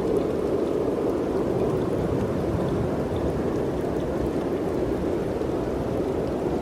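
Wind blowing steadily, a constant rushing noise with a low rumble beneath it.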